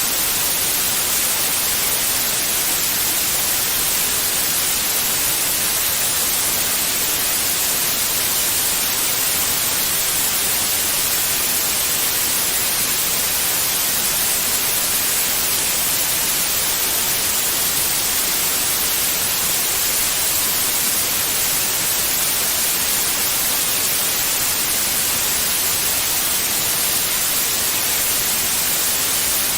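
Steady white noise: an even, constant hiss, brightest in the high frequencies, with no change.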